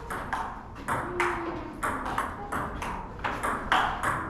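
Table tennis rally: the ball clicking sharply off paddles and table in quick succession, about three hits a second.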